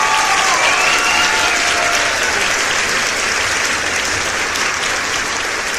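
Applause: many hands clapping densely and steadily, with a few gliding calls fading out under it in the first second and a half.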